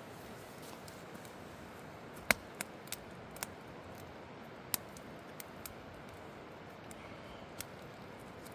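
Wood campfire crackling: sharp, irregular pops over a steady low hiss, the loudest pop about two seconds in.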